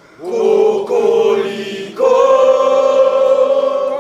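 A group of voices singing long held notes together, moving to a new, louder sustained chord about two seconds in.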